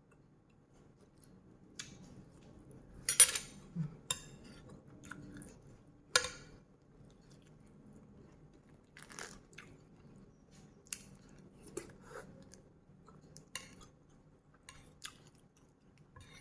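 A person chewing and eating nam tok moo, spicy grilled-pork salad, with scattered sharp clicks and taps of eating, the loudest about three and six seconds in.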